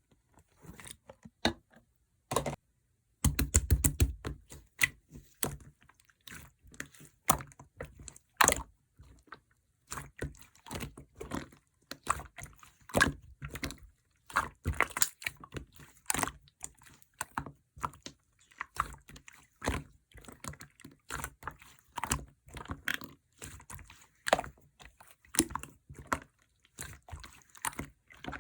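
Slime being squeezed, stretched and pressed by hand, giving irregular wet clicks and sticky pops.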